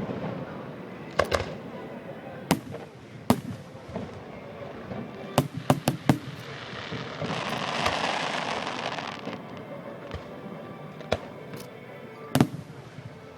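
Fireworks going off: scattered sharp bangs, with a quick run of several about five to six seconds in and a longer hissing, crackling swell around seven to nine seconds.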